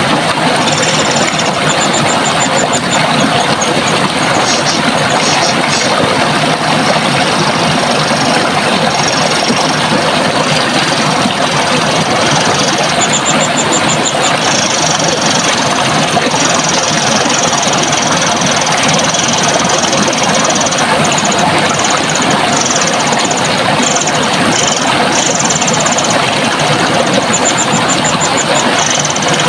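Steady rush of running water, with small birds calling over it in high chirps and several quick trills.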